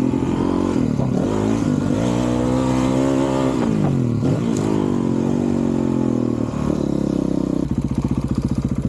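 2023 Honda CRF450RL's single-cylinder four-stroke engine, through a titanium Yoshimura RS-4 exhaust, revving hard on a motocross track. The pitch climbs and drops several times with throttle and gear changes. Near the end it falls off the throttle into a rapid, separate-pulse putter.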